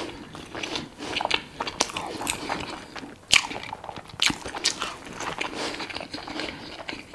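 Close-miked mouth sounds of a man chewing a mouthful of beef patties and rice: irregular wet clicks and smacks, with a sharper click about three seconds in and another about a second later.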